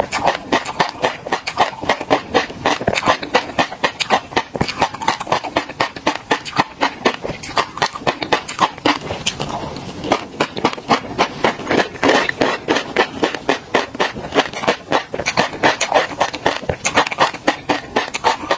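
Close-miked mouth sounds of chewing tobiko (flying fish roe): the tiny eggs pop in rapid, crisp crackles, several a second, with a brief lull near the middle as another spoonful goes in.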